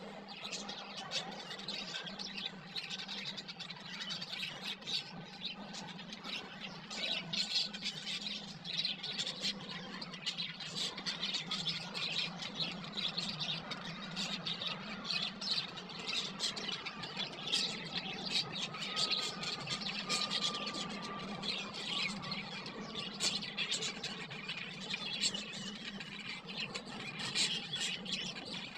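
Budgerigars chattering and chirping without a break, many rapid short calls overlapping, over a steady low hum.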